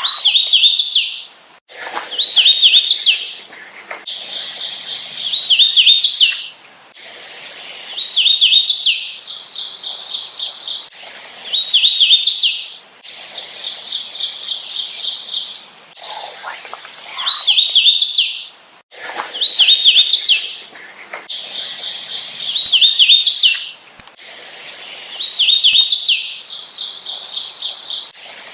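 Hooded warbler singing: clear, slurred whistled phrases that end in an emphatic upward note, repeated about every two to three seconds, some songs opening with a run of quick even notes.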